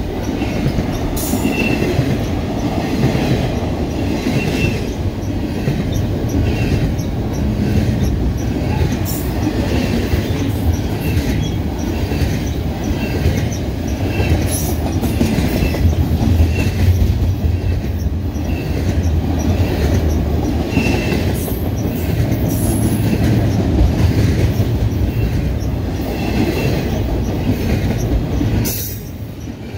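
Intermodal freight train of double-stack container cars passing close by: a steady rumble of steel wheels on the rails, with regular clicks as the wheels run over the track, and a brief drop in loudness near the end.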